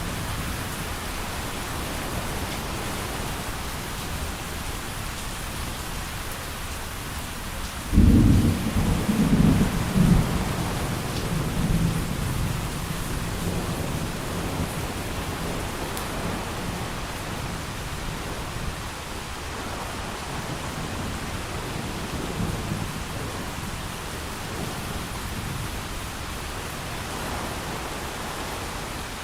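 Steady heavy rain, with a clap of thunder about eight seconds in that rumbles in several surges for a few seconds before fading back under the rain.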